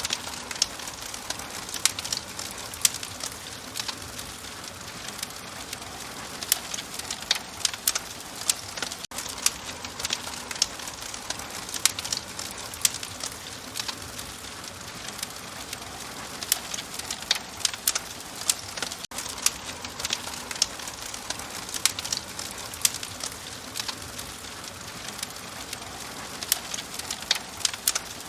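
Wood fire crackling in a fireplace: a steady soft hiss with irregular sharp pops and snaps.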